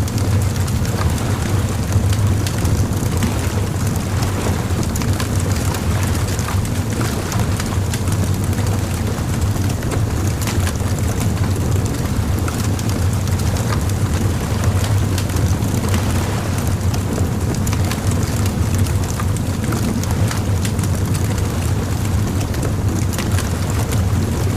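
Bonfire crackling: many small sharp pops and snaps from burning wood over a steady low rumble.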